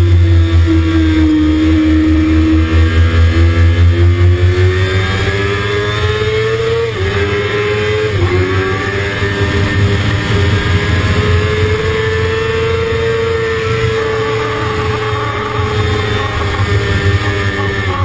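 Kawasaki ZX-6RR inline-four sport-bike engine at full throttle, revs climbing, with two quick upshifts about seven and eight seconds in, then held high and easing slightly near the end. Heavy wind rumble on the bike-mounted microphone underneath.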